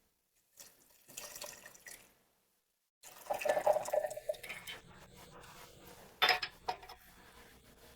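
Water being poured and dripping into Yixing clay teapots and cups during tea brewing, in short stretches, with a sharp clink about six seconds in.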